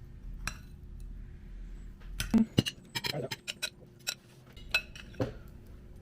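Dishes and cutlery clinking and knocking as a table is set with food: a handful of separate sharp clinks, with a quick run of them about three seconds in.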